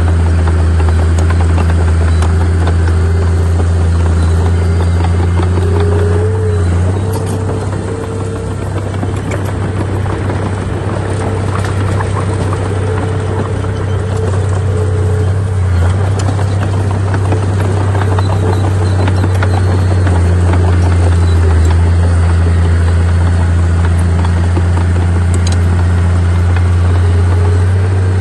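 Bulldozer's diesel engine running steadily under load, with a deep drone. It eases briefly about a quarter of the way in, then comes back up.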